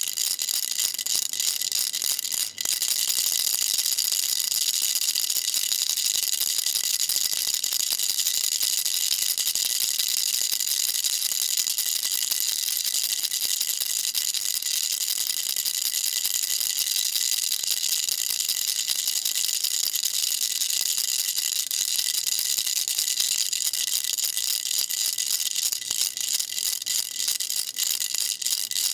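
Baby rattle shaken continuously: a dense, steady, high-pitched rattling of small beads inside, with a brief gap about two and a half seconds in.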